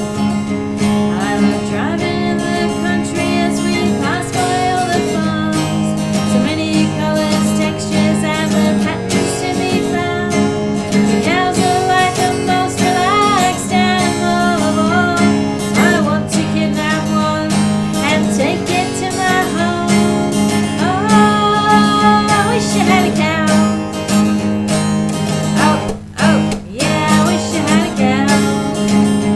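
Cole Clark Angel acoustic guitar strummed in a folk song, with a wavering melody line over the chords. The playing drops away briefly near the end, then resumes.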